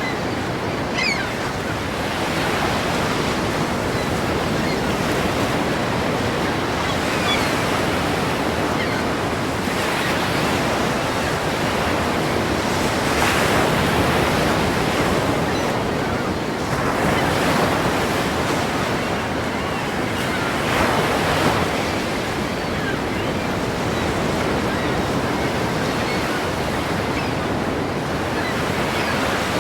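Ocean waves breaking and washing in a continuous surf roar, with louder surges as individual waves crash about every few seconds.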